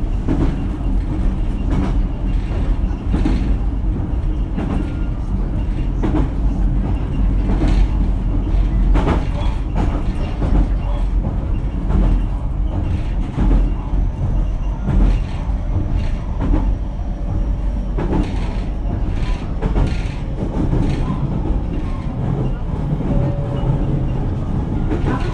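Running sound heard inside a JR Kyushu BEC819 series electric multiple unit, car KuMoHa BEC819-3, moving between stations. A steady low rumble of the wheels on the rails, with scattered clicks and knocks all the way through.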